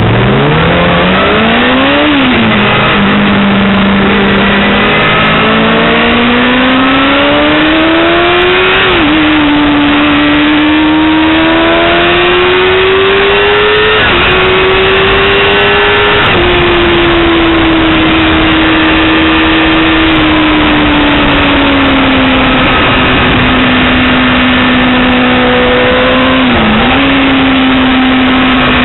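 Yamaha R6 600 cc inline-four sportbike engine revving hard under acceleration, its pitch climbing and dropping sharply at each upshift several times, then holding high revs with a brief dip near the end. A steady rush of wind noise runs underneath.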